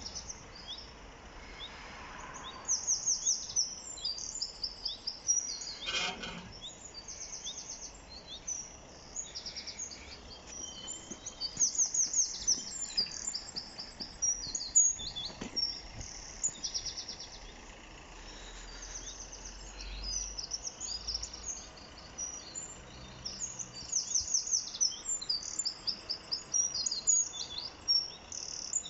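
Songbirds singing, a run of varied high chirps and quick trills that come and go, over faint steady background noise. A single sharp click about six seconds in.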